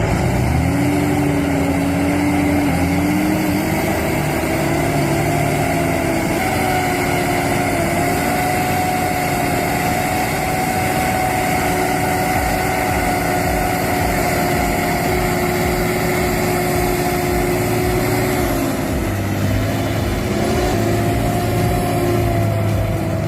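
A vehicle engine running hard. Its pitch climbs over the first several seconds, holds steady for a long stretch, then drops about 19 seconds in before picking up slightly again.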